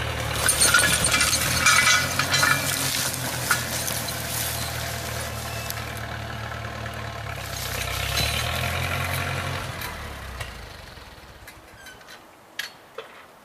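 1942 Farmall H tractor's four-cylinder engine running steadily, with dense crackling and clinking over the first few seconds, then dying away about ten seconds in. A few sharp clicks near the end.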